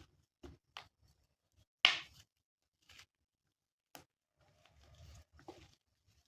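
Pieces of dry clay being broken and crumbled by hand: scattered small crunches and clicks, with one loud sharp crack about two seconds in.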